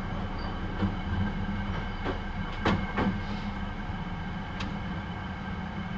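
Hankyu 9300 series electric train running along the track: a steady low rumble of wheels on rail, broken by several sharp clacks of wheels crossing rail joints, the loudest pair a little under halfway through.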